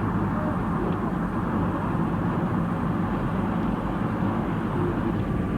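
Steady engine and road noise of a moving vehicle, heard from inside the cabin. A faint steady whine joins in near the end.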